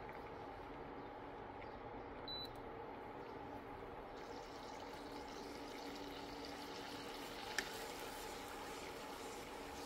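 Water bubbling steadily in a pot on the stove, over a faint steady kitchen hum, with one sharp tap about three-quarters of the way through.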